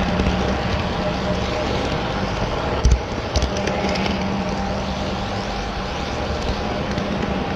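HO scale model train running on the layout: a steady rolling hum of wheels and motor on the track, with a short clack about three seconds in.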